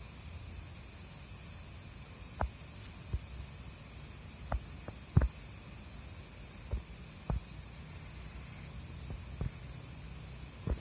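Night-time crickets trilling steadily in a high, pulsing chorus. About nine sharp, irregular knocks sound outside the tent, the loudest about five seconds in: the kind of strange night noises the camper finds unnerving.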